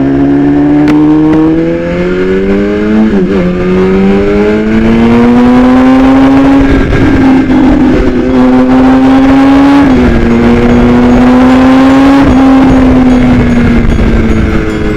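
BMW S1000RR inline-four engine through an Austin Racing aftermarket exhaust, pulling through the gears. The pitch climbs, then drops sharply at upshifts about three, ten and twelve seconds in, and falls steadily as the bike slows near the end.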